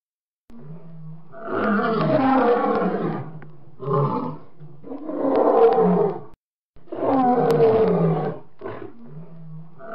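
Lion roaring repeatedly: three long, loud roars with two short ones between them, and a lower, quieter sound in the gaps.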